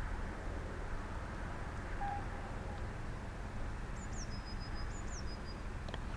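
Steady outdoor background hiss. About four seconds in, a small bird gives two thin, high-pitched whistled calls in quick succession, each dropping in pitch and then holding a steady note.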